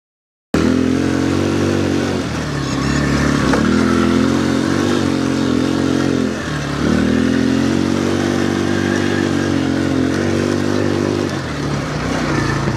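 Quad bike (ATV) engine running hard under throttle while drifting. Its pitch dips and climbs again roughly every four seconds as the throttle is eased and reapplied. The sound cuts in abruptly about half a second in.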